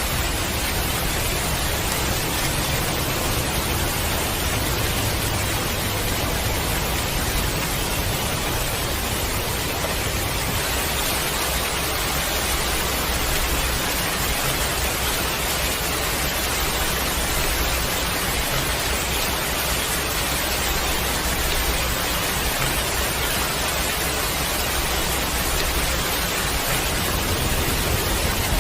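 Heavy rain falling steadily, a dense even hiss with a low rumble beneath and no separate drops or thunder.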